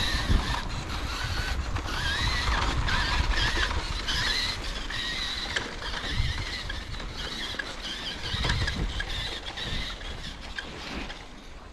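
Electric RC truck motor and drivetrain whining, the pitch wavering up and down as the throttle changes while it drives through snow.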